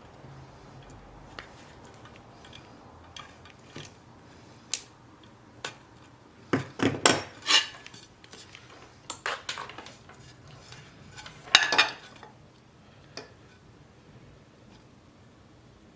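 Metal parts and hand tools being handled on a workbench: scattered light clicks and clinks, with two louder clusters of clanking, one about halfway through and one about three quarters of the way in.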